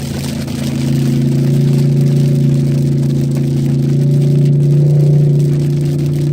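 Cadillac STS-V's supercharged V8 running at a steady pitch while the car is driven, rising slightly about four seconds in.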